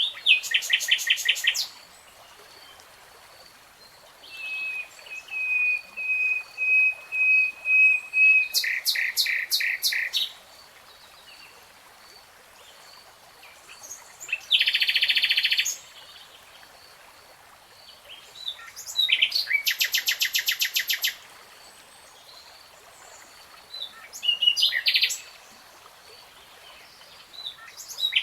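Nightingale singing in separate phrases a few seconds apart: bursts of rapidly repeated notes and trills, and one long held whistle that swells note by note before breaking into a fast trill. A faint steady hiss lies underneath.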